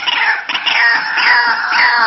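White-breasted waterhen calling: a steady series of falling notes, about two a second.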